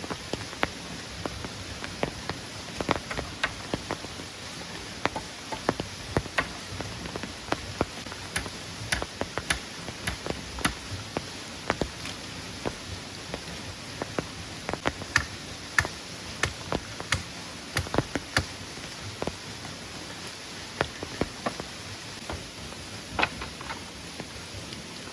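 Steady rain falling, an even hiss with many irregular sharp taps of drops landing close by.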